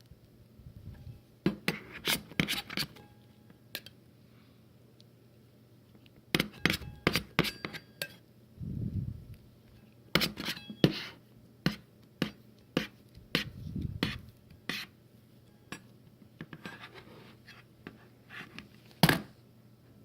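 Scrapers tapping and scraping on a metal cold plate while working rolled ice cream, with scattered sharp clicks and a couple of short low thuds.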